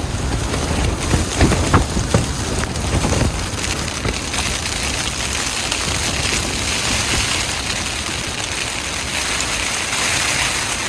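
Typhoon-strength wind gusting hard, rumbling on the microphone over a steady hiss, with a few sharp knocks about one to three seconds in.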